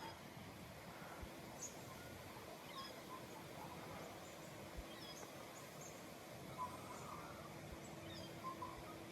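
Faint outdoor ambience: birds chirping here and there over a steady low hiss, with a faint steady hum underneath.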